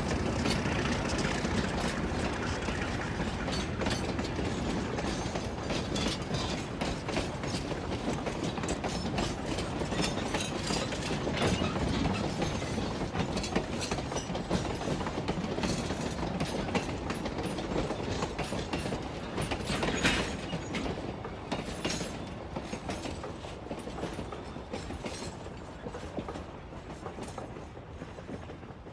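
Narrow-gauge train rolling by, its wheels clicking and clacking steadily over the rails, growing fainter over the last several seconds as it moves away.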